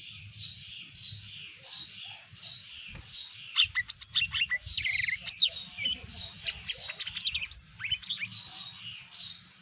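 Cucak ijo (green leafbird) singing. It opens with a steady series of repeated chirps, about three a second. From about three and a half seconds in comes a loud, rapid run of varied sharp whistles and sweeping notes, which eases back to repeated chirps near the end.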